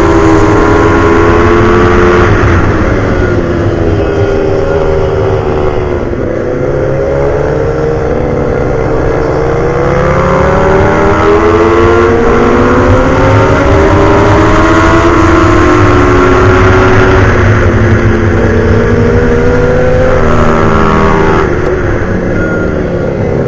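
Two motorcycle engines, a pit bike and a Yamaha R6, revving hard on a race track. Their pitches climb through the gears and drop off for corners, and at times cross one another, over a steady low rush of wind.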